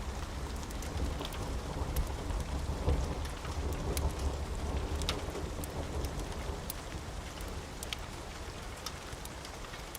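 Steady rain falling, with a low rumble of thunder that dies away over the second half. A few sharp crackles stand out over the rain.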